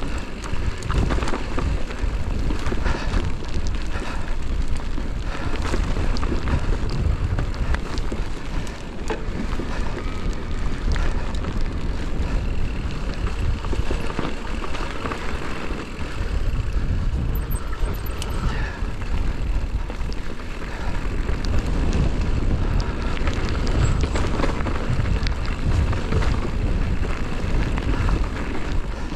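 Wind buffeting the action camera's microphone with a constant low rumble during a mountain-bike descent, mixed with the clatter and rattle of the bike and tyres over the rough trail.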